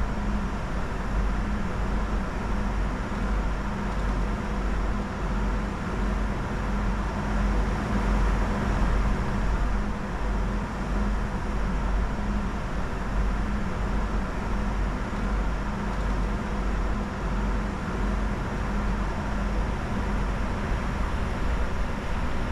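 Steady in-flight cockpit noise of a Bombardier Challenger 605 business jet during descent: a constant rush of airflow over a deep low rumble, with faint steady hums from the aircraft's systems.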